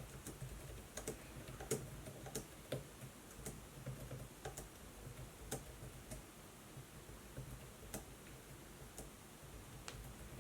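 Laptop keyboard keys tapped in scattered, irregular clicks, over a faint low hum.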